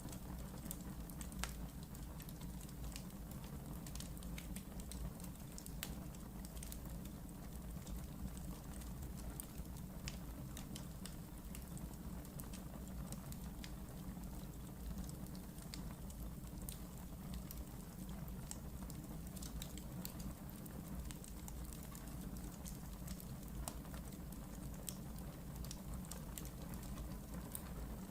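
Wood fire burning in a fireplace, a steady low rumble of the flames with frequent small, irregular crackles and pops.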